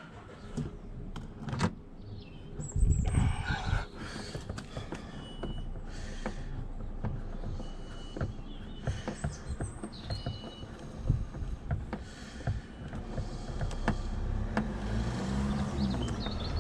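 Irregular clicks and light knocks of hands and a screwdriver working at a car's door trim while Torx T30 screws are driven in to fix a door pull handle. A low vehicle rumble grows near the end.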